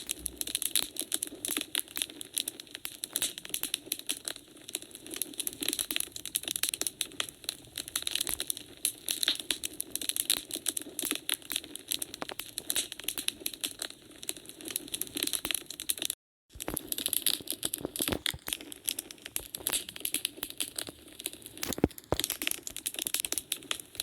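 Wood fire crackling in a fireplace: a dense, irregular run of small pops and snaps over a steady hiss, with a split-second gap of silence about two-thirds of the way through.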